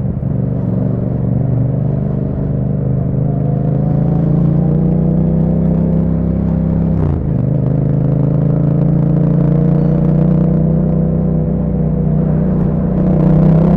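2021 Yamaha MT-07's 689 cc parallel-twin engine through an Akrapovic exhaust with dB killer, accelerating while riding. The engine note climbs steadily for about seven seconds, drops suddenly at an upshift, then climbs slowly again and gets a little louder near the end.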